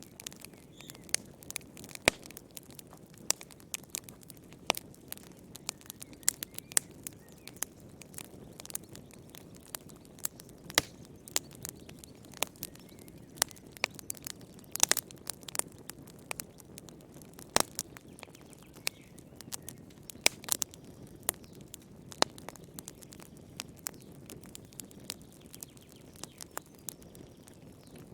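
Wood fire crackling in a fireplace: irregular sharp snaps and pops, a few each second, over a soft low rumble of the burning.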